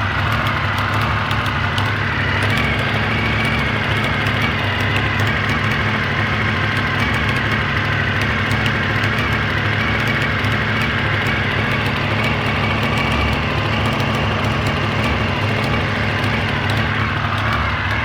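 Honda VFR400R NC21's V4 engine running at a steady idle with a strange exhaust noise, which the owner put down to a failed exhaust O-ring needing replacement.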